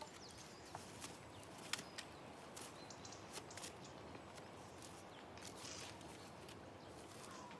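Faint quiet woodland ambience with scattered small clicks and ticks and a brief faint bird chirp about three seconds in.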